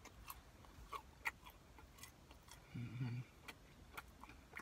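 Close-up chewing of crispy fried orange chicken with the mouth closed: faint, irregular crunchy clicks. A short hummed 'mm' comes about three seconds in.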